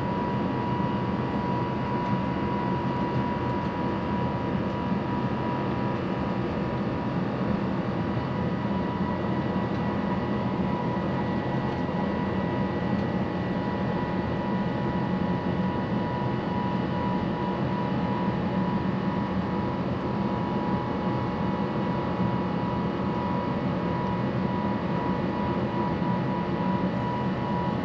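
Airbus A350-1000's Rolls-Royce Trent XWB engines at climb thrust, heard inside the cabin: a steady rushing drone with a steady high whine over it.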